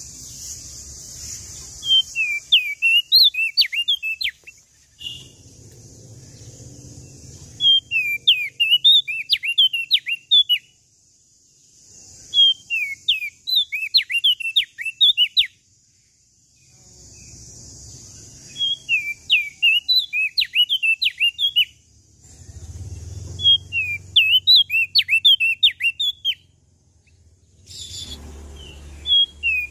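Prenjak daun (opior jambul, crested darkeye) singing in repeated phrases. Each phrase is a quick run of high, sharply slurred whistled notes lasting a few seconds, with a few seconds of pause between phrases, six times in all. A steady high hiss and a low rumble fill the gaps.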